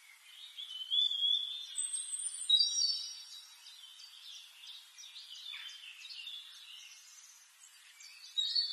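Small birds chirping, with high, short gliding calls, loudest about one and two and a half seconds in.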